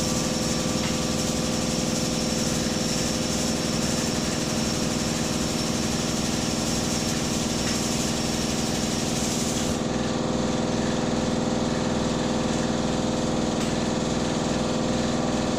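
A motor-driven machine running steadily at one speed, with a hiss on top that thins out about ten seconds in.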